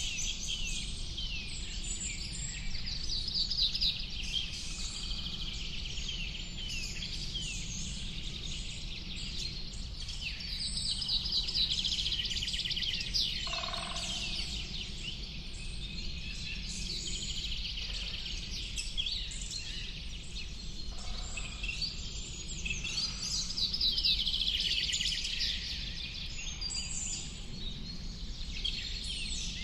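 Many small birds chirping and trilling at once, a dense chorus of short, rapid, high calls, with an occasional lower call, over a steady low rumble.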